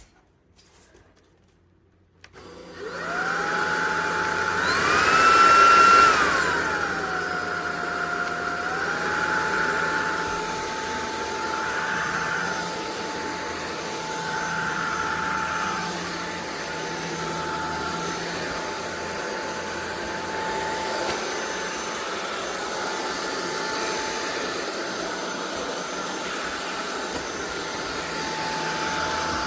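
Cordless stick vacuum switched on: its motor spins up into a steady high whine with rushing airflow. A few seconds in it rises briefly to a higher, louder pitch, dips, then settles back to a steady whine.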